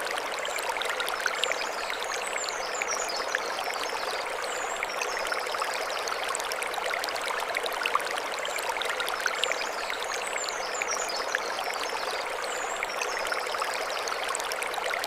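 Mountain stream flowing over stones: a steady rushing and splashing of water, dotted with small drips. Twice, a run of high chirping sounds over it, about seven seconds apart.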